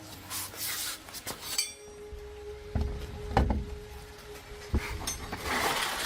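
Small hard objects, such as metal parts and tools, clinking and knocking, with a few dull thumps in the middle and short bursts of hiss near the start and the end.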